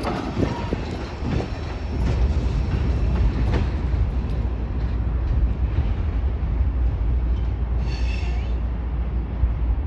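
Freight train's tank cars and covered hoppers rolling past and away: a steady rumble with a few wheel clicks over rail joints in the first few seconds, and a brief high wheel squeal about eight seconds in.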